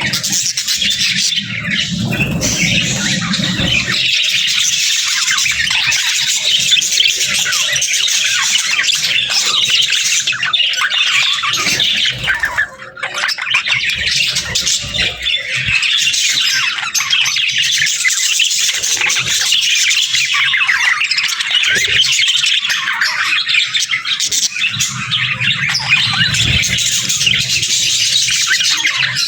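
Budgerigars chattering continuously, a dense mix of warbles and chirps, with a brief lull about thirteen seconds in.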